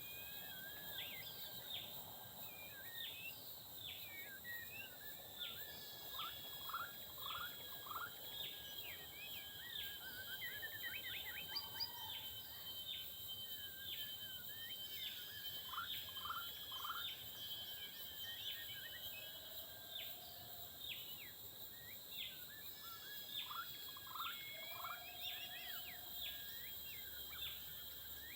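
Birds calling repeatedly in forest with short, quick falling notes, over a steady high insect drone.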